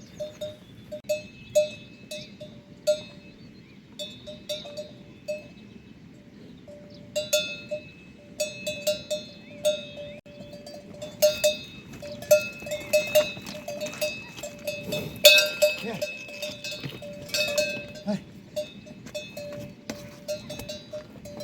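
Metal livestock bell clanking irregularly, as an animal wearing it moves. A few scattered clanks at first, then quicker and more frequent from about a third of the way in.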